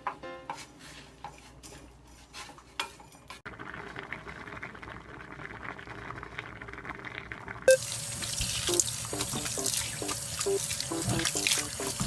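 Kitchen tap water running, starting about three and a half seconds in and getting louder and brighter about eight seconds in, with light clicks before it and background music throughout.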